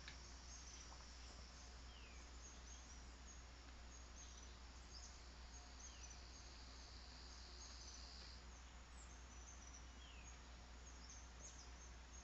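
Faint rural ambience of insects and birds: a steady high insect drone that stops about eight seconds in, many small high chirps, and a short falling bird call that comes back about every four seconds, over a low hum.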